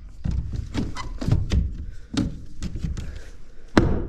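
A run of irregular knocks and thumps, like objects being handled against a wooden wall, with the sharpest knock near the end.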